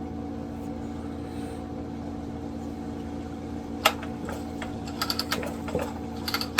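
Clicks and rattles from handling a Homelite Super XL-67 chainsaw: one sharp click about four seconds in, then a run of quick clicks near the end, over a steady background hum.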